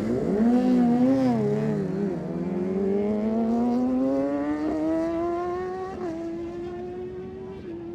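Superbike engines revving, wavering up and down for about two seconds, then one engine's pitch climbs steadily as the bike accelerates, with a small jump about six seconds in, then holds steady.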